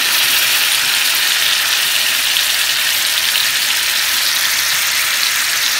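Minced garlic frying in melted butter and olive oil in a hot skillet: a steady sizzle.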